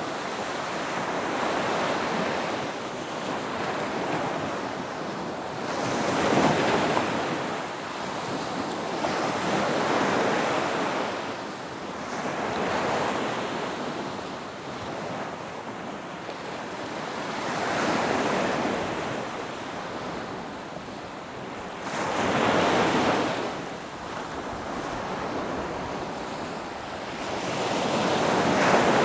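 Ocean waves breaking on a beach, the surf swelling and easing in a slow rhythm with a wave crashing every few seconds, a few louder than the rest.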